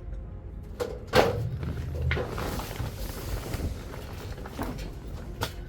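Hand-work noises from refitting spark plug wires under the hood: a couple of clicks and knocks, the loudest about a second in, then a few seconds of rustling scrape, over a low steady hum.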